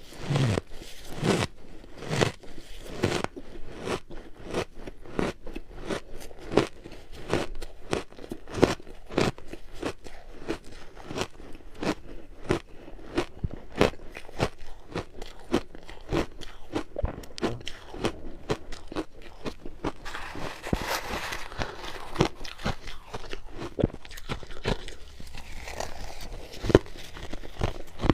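Ice being bitten and chewed close to the microphone: a steady run of sharp crunches, several a second, as chunks crack between the teeth.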